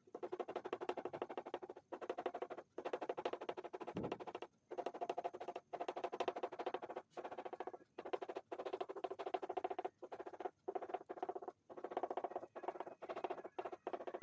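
Pastel stick scribbling and rubbing on paper in quick back-and-forth strokes, a continuous scratchy rasp broken by brief pauses as the stick lifts off.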